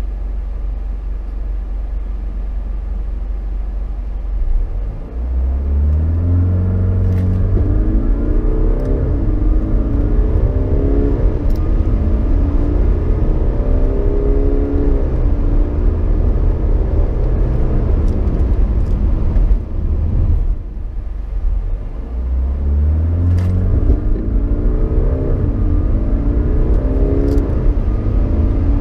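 2018 Jaguar XF 20D's 2.0-litre four-cylinder turbodiesel, heard from inside the cabin: idling, then accelerating hard from a standstill about five seconds in, its pitch rising and dropping back at each automatic upshift. The engine falls away briefly about two-thirds of the way through, then a second hard full-throttle run begins and climbs through the gears again.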